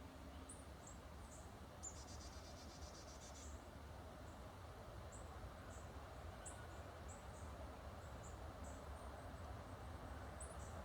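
Small songbirds giving short, high chip calls scattered throughout, with a rapid buzzy trill about two seconds in, over a steady low rumble.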